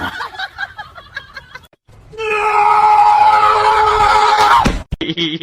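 A loud scream held at a steady pitch for about two and a half seconds, cutting off suddenly. Before it, about a second and a half of short, choppy vocal sounds.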